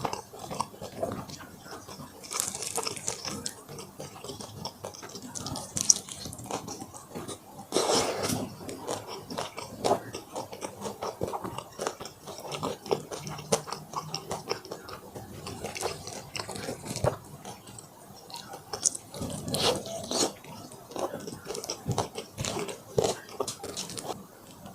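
Close-miked eating of fried chicken and black bean noodles: repeated bites, crunching and chewing, with a louder crunch about eight seconds in.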